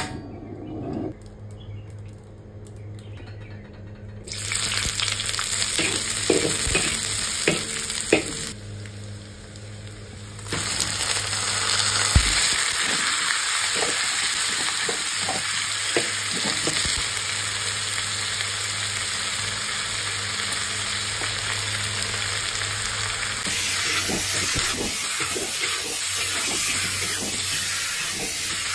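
Chicken pieces sizzling in hot oil in a wok, stirred and scraped with a spatula. The sizzling starts about four seconds in, drops away briefly near nine seconds, and comes back loud and steady about ten seconds in.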